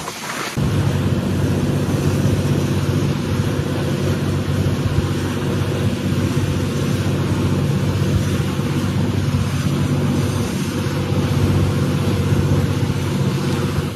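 Fishing boat's engine running loud and steady at a near-constant pitch, with a steady hiss over it. It starts abruptly about half a second in.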